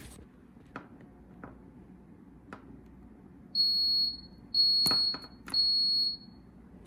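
Three high-pitched electronic beeps, each about a second long with short gaps between them, from a small electronic beeper. A few light clicks come before and during them.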